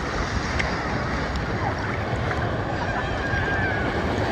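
Seagulls calling a few times, short faint cries, over a steady wash of surf and wind.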